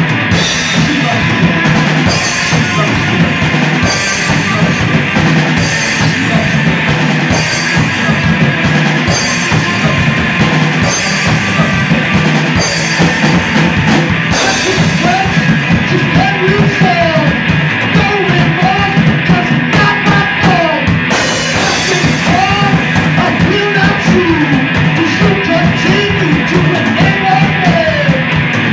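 Live rock band playing loudly, with a drum kit and crashing cymbals driving a steady beat under bending guitar lines.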